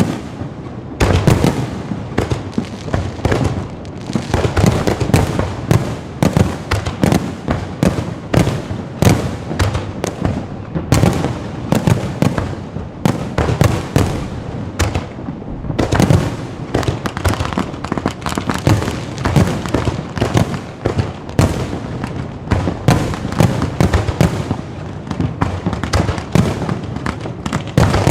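Fireworks display going off continuously: a dense, irregular barrage of booms and sharp bangs, many each second, with crackling between them.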